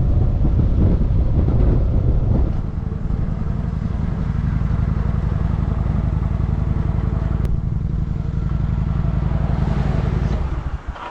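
Loud low rumble of wind and riding noise buffeting the microphone while riding a bike, dropping away about ten seconds in.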